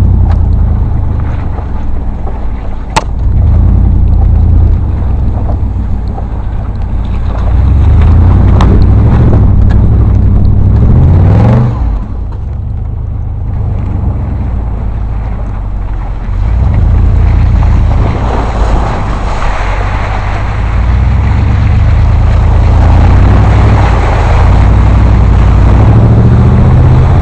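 Off-road vehicle's engine running hard through mud and water, revving up with a rising pitch, dropping off abruptly about twelve seconds in, then building again and staying loud.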